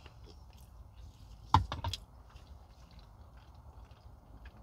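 Close-up chewing and mouth sounds of someone eating stewed chicken and cabbage, mostly soft, with one sharp loud click about a second and a half in and a couple of smaller ones just after, over a low steady hum.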